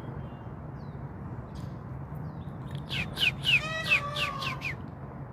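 Peafowl calling: a quick run of loud, wavering, meow-like calls starting about three seconds in and lasting under two seconds.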